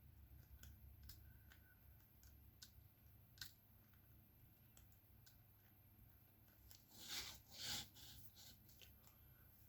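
Faint, scattered small clicks of a diamond-painting drill pen tapping resin drills onto the canvas, with a brief louder rustle about seven seconds in.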